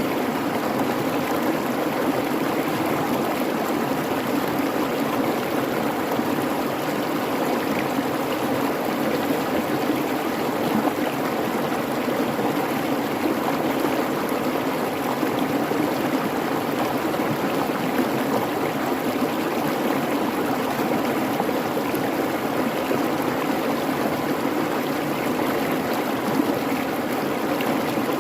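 A babbling creek: water rushing and bubbling over rocks in a steady, unbroken stream.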